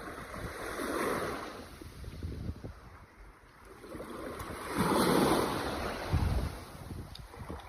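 Ocean waves washing in, the rushing surf swelling about a second in and again around five seconds, with a brief low thud just after six seconds.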